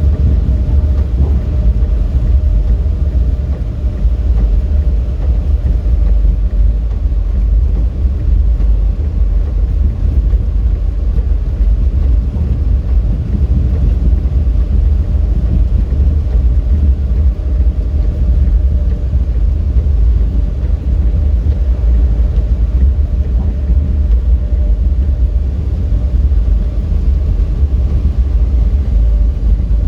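A car driving at steady speed: a continuous low rumble of road and engine noise, unchanging throughout.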